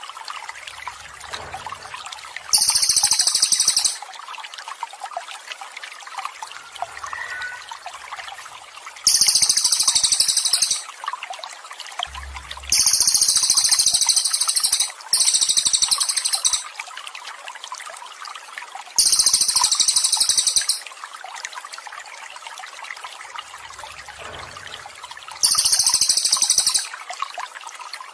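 Water trickling steadily, with a songbird breaking in about six times in short, very high-pitched bursts of rapid song, each lasting one and a half to two seconds.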